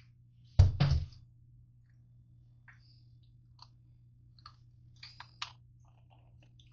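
Two sharp knocks close together about half a second in, followed by scattered light clicks and taps.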